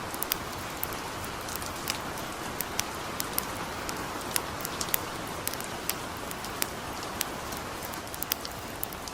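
Steady hiss of light rain, with the irregular sharp crackles and pops of a campfire, a few each second.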